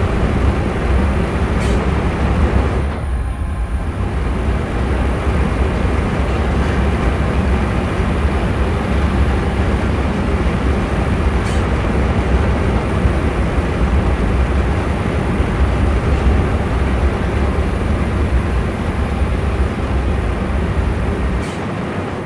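Steady rumbling roar of a coal-fired steam boiler, its furnace fire burning and the water boiling. A deep low rumble drops away near the end.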